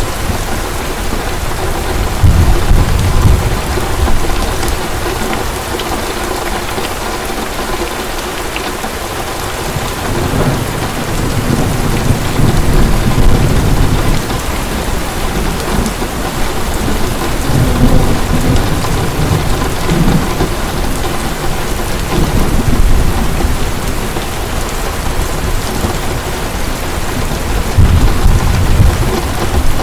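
Heavy rain falling steadily, with rolls of thunder rumbling low several times, the loudest a few seconds in and near the end.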